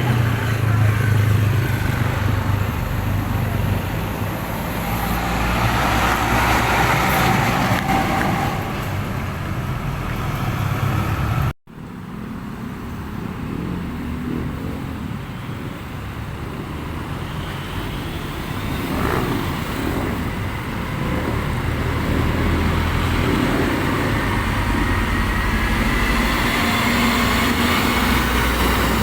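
Road traffic with heavy truck engines running as trucks pass, a steady low rumble. The sound breaks off for an instant at a cut about a third of the way in, then traffic resumes, with a faint rising whine near the end.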